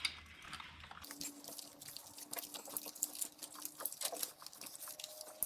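Faint, scattered small clicks and taps of hands handling brittle old plastic wiring connectors on an engine harness, with a faint steady hum underneath.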